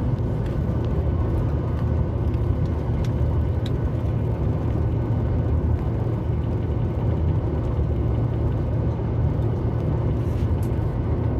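Steady low rumble of a Boeing 737 MAX 8's CFM LEAP-1B engines and airflow, heard inside the passenger cabin.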